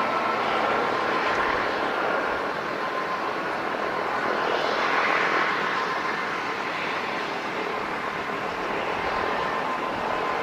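Airplane engines running: a steady rushing noise with a high whine in it, swelling about halfway through.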